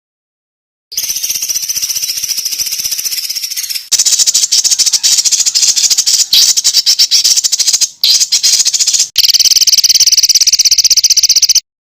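Recorded songbird calls for tutoring caged birds: rapid, harsh, high-pitched trills and rattling chatter in spliced sections. They start about a second in, break off briefly twice, and cut off shortly before the end.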